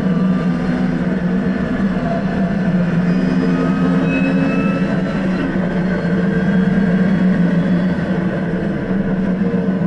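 Lotus Exige engine and exhaust heard from inside the cabin, pulling hard at nearly steady high revs along a straight, with road and wind noise underneath.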